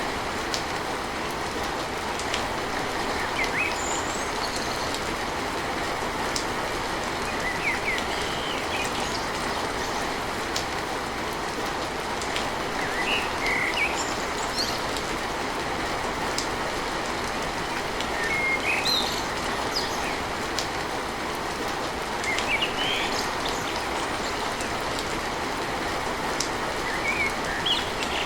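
Steady rain on a tin roof, a dense even hiss, with faint drop ticks. Short bird chirps come through every few seconds.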